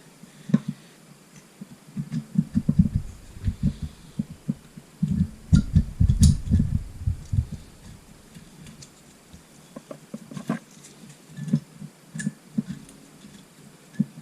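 Irregular clusters of dull low thuds and knocks with a few sharp clicks: a Suzuki GN250 cylinder head being rocked and worked loose from the engine.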